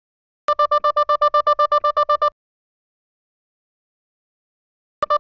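Electronic alarm beeping rapidly, about ten short high beeps a second for nearly two seconds, stopping, then starting again near the end.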